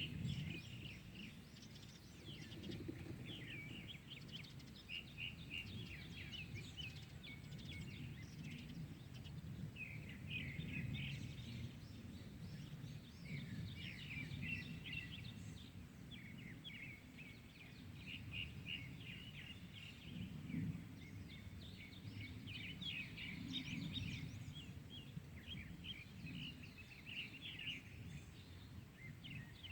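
Several small birds chirping and singing in quick, dense runs of short notes, over a steady low rumble of outdoor background noise.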